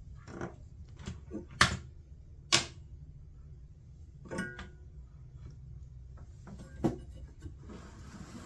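A few sharp clicks and taps of hand tools on a circuit board during desoldering of a relay, with a steady low hum underneath; the lead-free solder is being stubborn.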